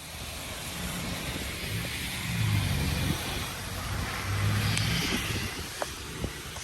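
Road vehicle noise: a low engine hum that swells twice over a steady hiss of tyres and wind.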